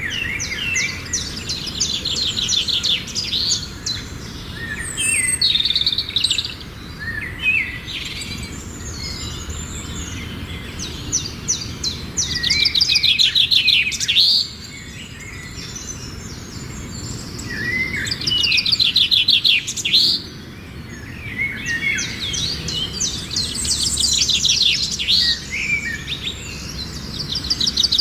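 Songbirds singing: bursts of rapid trilled notes and short whistles recur every few seconds over a steady low background hiss.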